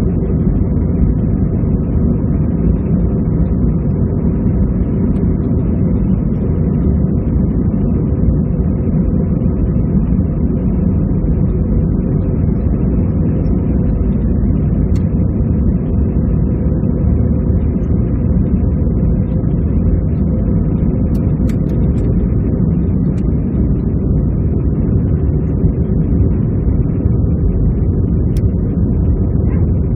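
Airbus A320-214's CFM56 jet engines running, heard inside the passenger cabin as a steady low rumble with an even hiss above it.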